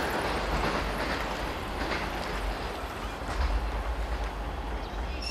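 A train running on the rails just out of sight, a steady rumble of wheels on track.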